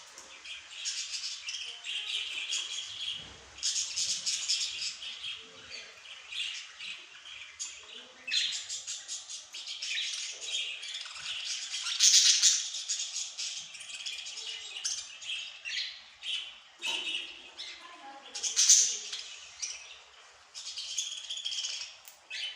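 Small songbirds chirping and singing without pause, in quick, high-pitched trills and twitters, with louder bursts about twelve and nineteen seconds in.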